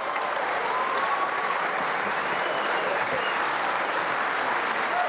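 Audience applauding steadily, with a few voices cheering over the clapping.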